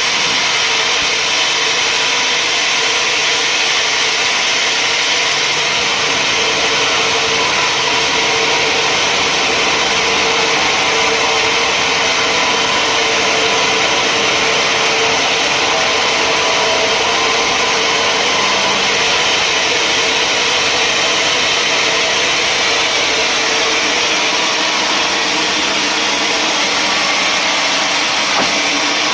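Sawmill saw running steadily as it cuts through a mahogany log, a constant loud whine and rasp with no let-up.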